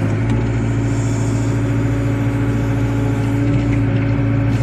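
Wheeled excavator's diesel engine running at a steady speed, a constant hum with no revving.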